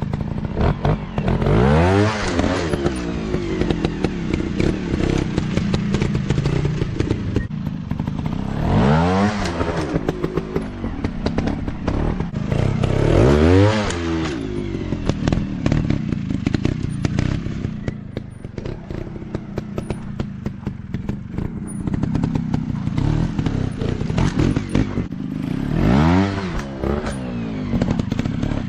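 Off-road dirt bike engines running, revved hard about four times with the pitch climbing and then falling away each time, amid steady clattering and knocks.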